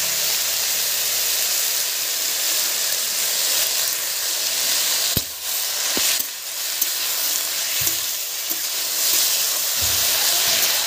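Chopped spinach and potato pieces sizzling in hot mustard oil in a kadhai, a steady hiss throughout, with two sharp clicks about five and six seconds in.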